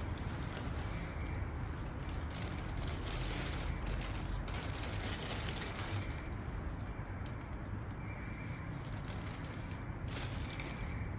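Harley-Davidson Sportster XL883L V-twin engine idling steadily with a rapid, uneven low pulse.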